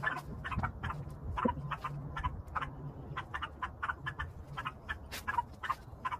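Dogs yapping over and over, several short yaps a second in an uneven run, over a steady low hum.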